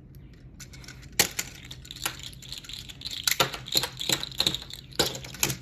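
Small objects handled on a surface: irregular clicks, taps and rattles, coming faster and louder in the second half.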